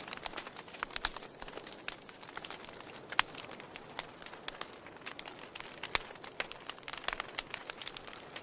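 Wood fire crackling in a fireplace: irregular sharp pops and snaps over a soft hiss, with louder pops about a second in, about three seconds in and about six seconds in.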